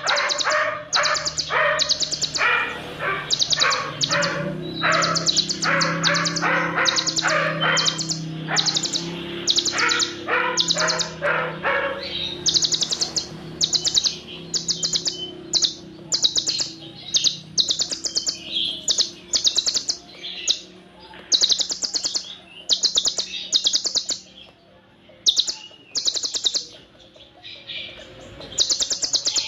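Kolibri ninja sunbird song: dense, repeated very high rapid trills ('tembakan'), one or two short bursts a second, mixed with imitated cililin phrases. Lower chattering notes join in during the first dozen seconds, over a low steady hum that fades out past the middle.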